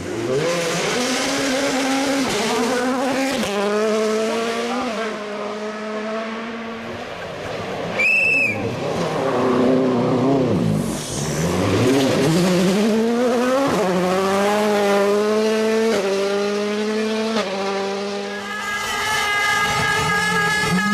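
World Rally Car's turbocharged engine accelerating hard up through the gears, the pitch climbing and dropping back at each upshift. Near halfway it lifts off and the revs fall, then it accelerates through the gears again. A short high whistle sounds about eight seconds in.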